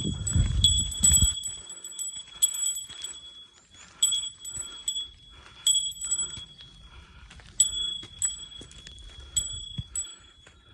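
A small metal bell ringing with one clear high tone, struck again every second or so in an uneven rhythm. A low rumble, like wind on the microphone, is heard during the first second or so.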